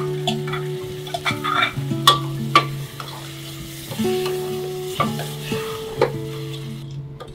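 Lentils, tomato and spices sizzling in hot oil in a stainless steel pressure-cooker pot as a ladle stirs them, knocking against the pot every second or so. Soft background music with held notes runs underneath.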